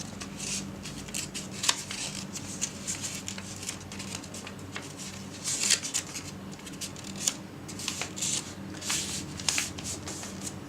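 A square sheet of origami paper being handled, folded and creased by hand: irregular crisp rustles and crackles of paper, thickest about halfway through.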